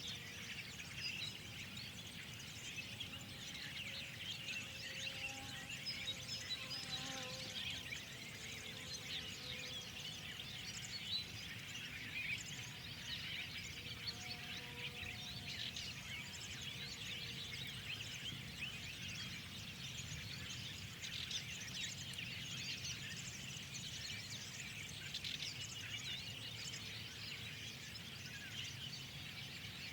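A chorus of many small birds chirping and twittering at once, the quick calls overlapping without pause, over a steady low background rumble.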